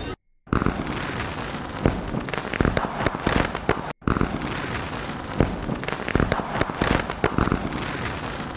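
Dense, irregular crinkling and crackling of packaging being handled and opened, broken twice by brief drops to silence.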